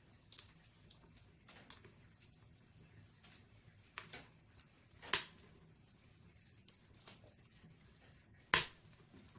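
Wood burning in a fireplace, crackling with scattered sharp pops and snaps over a faint hiss. The loudest pop comes near the end.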